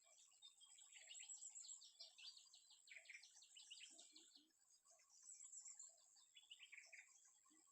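Faint forest ambience: small birds chirping in quick runs of short notes over a steady high insect drone. Twice, a short group of three low hooting notes.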